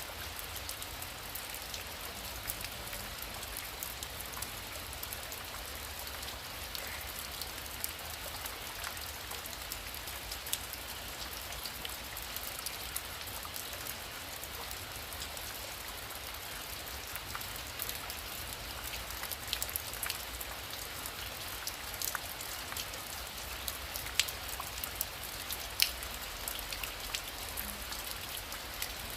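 Heavy rain falling steadily, with scattered sharper drop impacts; a few louder single drops stand out near the end.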